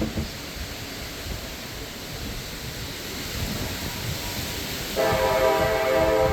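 Gusty wind rumbling and buffeting the microphone; about five seconds in, a train's air horn starts sounding a steady chord and holds.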